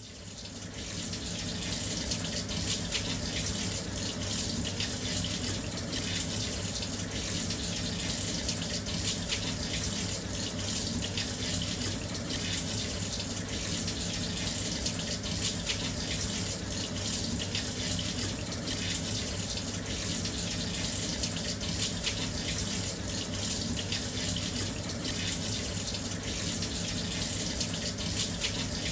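Washing machine filling with water: a steady rush of water pouring into the drum, fading in over the first second or two and then running evenly.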